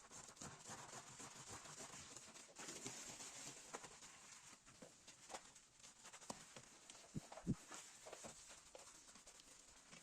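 Faint, scattered light taps and clicks of things being handled over a steady hiss, with one sharper tap about seven and a half seconds in.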